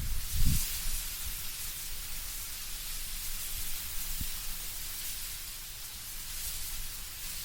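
Wind moving through tree foliage, leaves rustling as a steady airy hiss. A brief low gust rumble in the first half second, after which the wind eases slightly.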